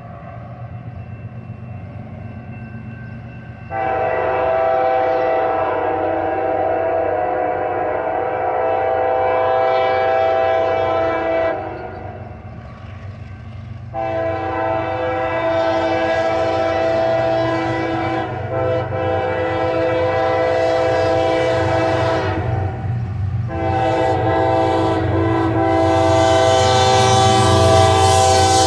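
Approaching CSX diesel freight locomotive sounding its multi-chime air horn in long blasts at a grade crossing: one about four seconds in, a second from about 14 s, and a third starting after a brief break near 23 s. A low locomotive rumble runs beneath and grows louder as the train nears.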